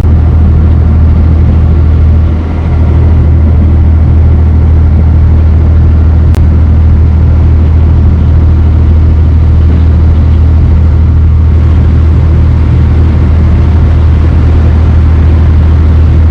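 Dutch barge's inboard engine running steadily underway, a loud, unchanging low drone.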